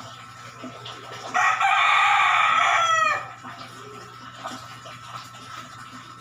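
A rooster crowing once: a loud held call of about two seconds that drops in pitch at the end.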